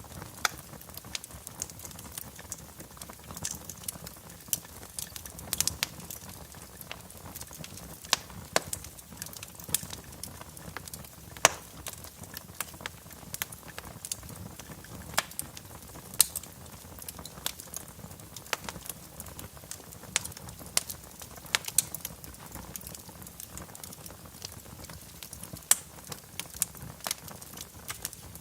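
Fire burning in a fireplace, crackling with irregular sharp pops over a low, steady rumble.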